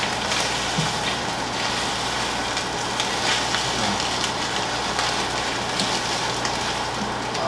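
Beaten eggs and diced beef loaf frying in a nonstick skillet: a steady sizzle, with a few light clicks of the stirring utensil against the pan.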